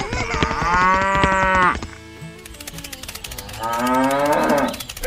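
A cow mooing twice: two long calls, each about a second and a half, the second starting about two seconds after the first ends.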